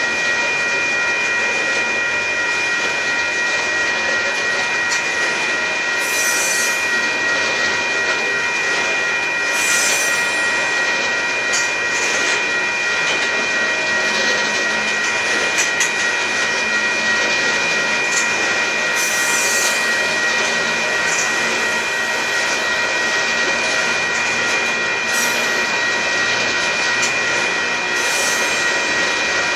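Freight cars of a Union Pacific gravel train rolling past, with a steady high-pitched wheel squeal over the rumble of the wheels. Short bursts of high hiss come now and then.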